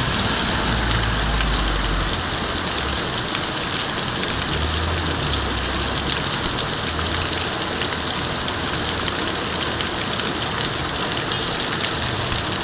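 Heavy downpour hissing steadily, with vehicle engines running low beneath it, louder for a couple of stretches, about half a second to two seconds in and again around five to seven seconds in.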